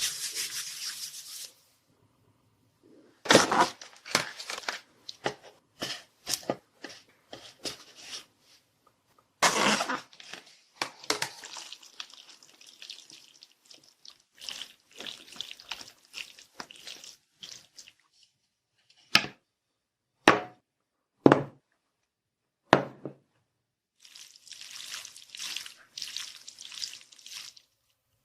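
Close-miked food and tableware handling: clusters of wet, sticky rustling and clicking, then four separate sharp knocks, then softer rustling near the end.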